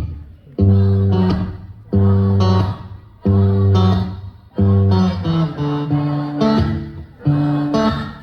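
Instrumental guitar music between sung lines: chords plucked or strummed about every second and a quarter, each ringing and fading before the next.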